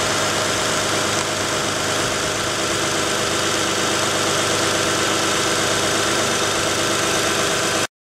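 Car engine idling steadily at an even level, with a hiss over the top.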